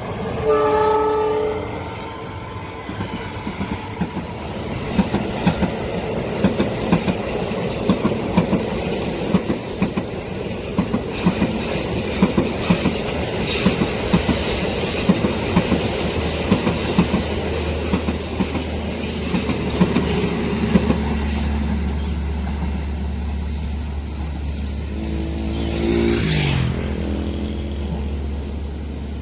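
Train horn sounding briefly at the start, then a long train passing over a level crossing, its wheels clicking rhythmically over the rail joints for most of the time. A steady low hum builds in the second half, and a falling pitch sweeps down a few seconds before the end.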